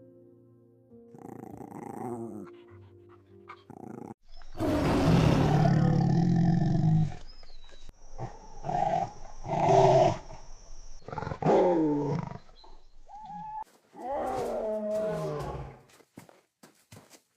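A tiger's roar, long and loud, about four seconds in, followed by a dog's short barks and yelps and then falling, wavering whimpers.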